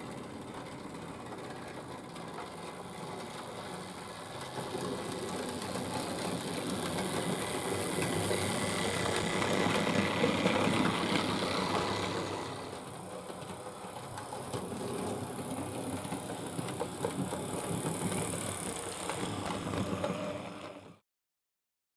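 Hornby Dublo 3-rail model tank locomotive running on the layout: its electric motor whirring and its wheels rattling over the metal track. It grows louder to a peak about ten seconds in, drops back, builds again, and cuts off abruptly near the end.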